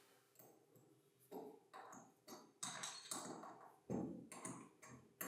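Faint, irregular light taps and knocks, about two a second with one louder knock near the end, from hand work on tool parts.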